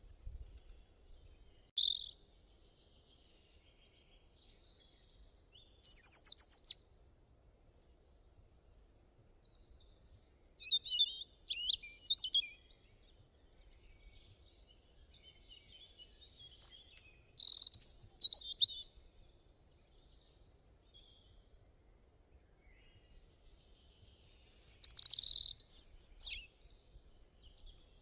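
Small birds chirping and singing in short, high bursts, with quiet gaps between the phrases.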